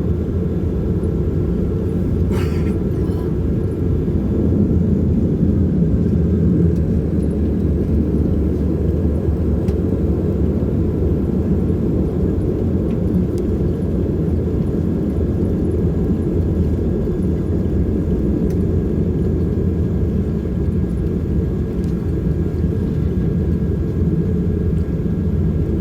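Steady low drone of an Embraer EMB-120 Brasilia's twin turboprop engines, heard inside the cabin while the aircraft taxis after landing.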